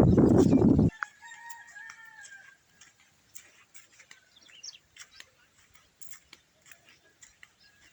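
Rooster crowing about a second in, a call of a second and a half with a few stacked tones. Before it, a loud low rumbling noise on the microphone cuts off suddenly. Faint scattered chirps and ticks follow.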